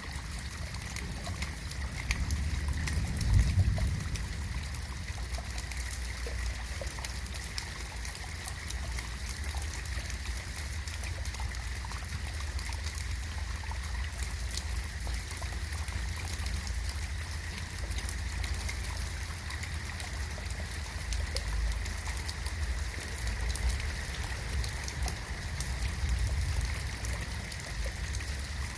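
Rain falling steadily in a garden, an even patter of drops over a low rumble, with a brief louder low swell about three seconds in.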